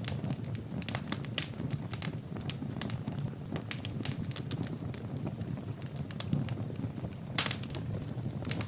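Fire in a fireplace crackling: frequent irregular sharp pops and snaps over a low, steady rumble of flames.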